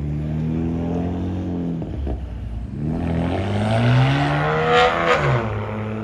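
A car engine accelerating hard through the gears. Its pitch climbs, drops about two seconds in at an upshift, climbs again louder, then falls away sharply just after five seconds.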